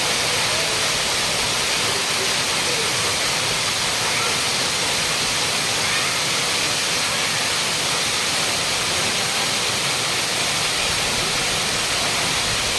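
Sirki waterfall's falling water: a steady, even rush of water.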